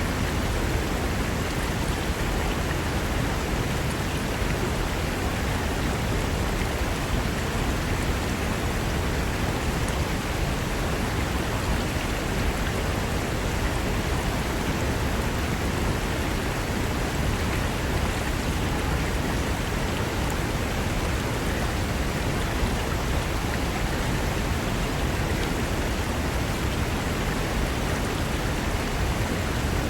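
Mountain river rushing over rocks: a steady, unbroken wash of water noise with a deep low rumble.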